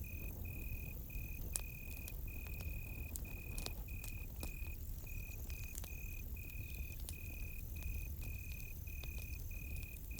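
Crickets chirping in short, evenly repeated trills about twice a second, over a campfire crackling with scattered sharp pops and a low steady rumble.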